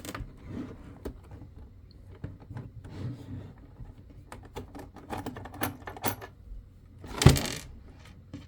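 Xcelite driver working a screw on an IBM Model M keyboard: a string of small metallic clicks and scrapes as the screw is turned, with one louder metal clatter about seven seconds in.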